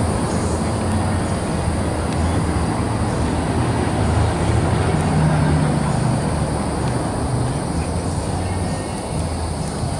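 A vehicle engine running with a steady low rumble, swelling a little about four to six seconds in.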